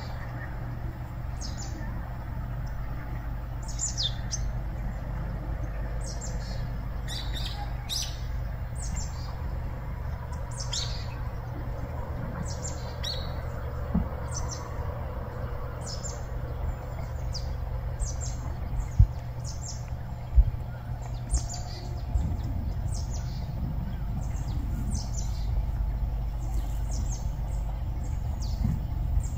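Small birds chirping again and again, short high calls scattered throughout, over a steady low rumble. Two sharp knocks stand out about two-thirds of the way through.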